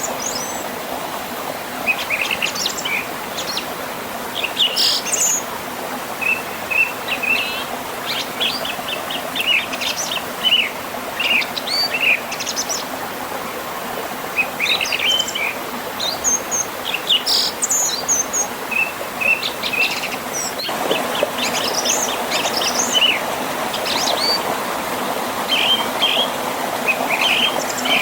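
Several songbirds chirping and trilling in short phrases over the steady rush of a flowing river and small waterfall. The water noise grows a little louder about three-quarters of the way in.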